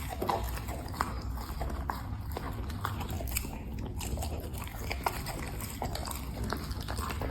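A dog chewing food: irregular short clicks and bites of the mouth, over a steady low hum.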